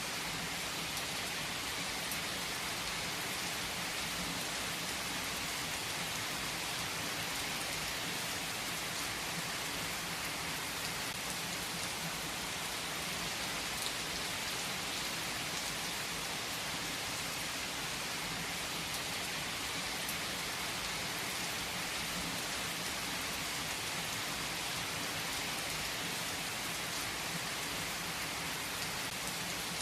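Steady rain falling, an even hiss with a few faint crackles from a wood fire.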